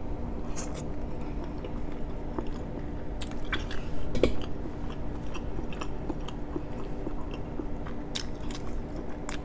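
Close-miked chewing of boiled shrimp from a seafood boil: uneven wet mouth clicks and smacks, a little louder about four seconds in, over a steady low hum.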